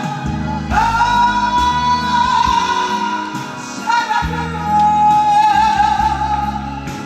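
Korean popular song performed live over a backing track. The melody is sung in long held notes with a slight waver, one after about a second and another from about four seconds in.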